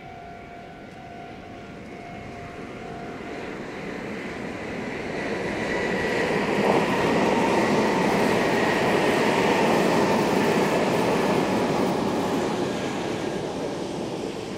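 Meitetsu 2200 series electric train sounding its musical horn, the held horn notes stopping a few seconds in, then the train passing at speed, its running noise swelling to a peak around the middle and fading near the end.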